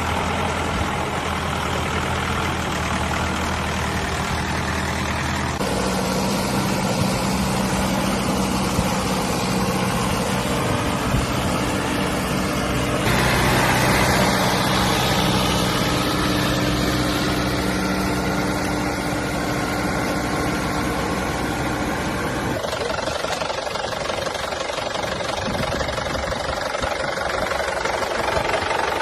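Tractor engine running steadily while ploughing a water-filled field, its engine note changing abruptly three times.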